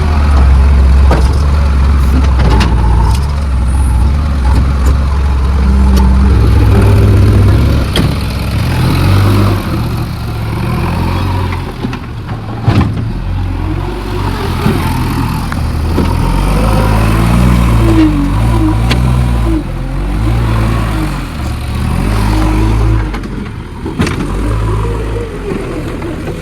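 JCB backhoe loader's diesel engine running loud, its note rising and falling as it is revved under load, with a few sharp metallic knocks along the way.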